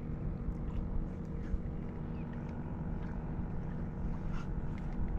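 Steady low engine drone that holds a constant pitch, with a few faint light ticks above it.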